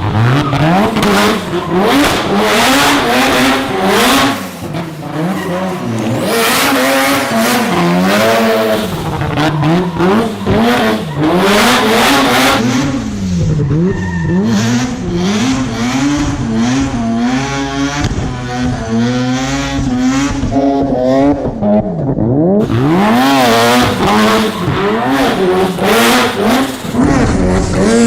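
Rotary-engined car driven hard: the engine revs rise and fall again and again, with bursts of tire squeal.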